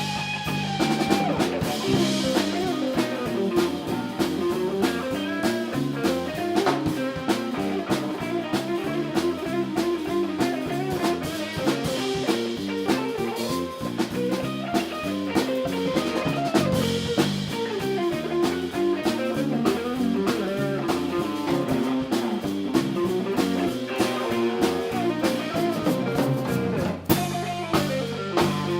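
A live band playing a song: guitar lines over a drum kit keeping a steady beat.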